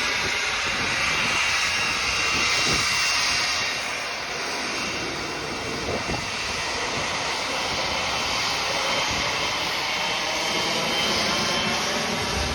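Jet aircraft engines running as the plane passes close by: a steady, loud rush with a strong high hiss.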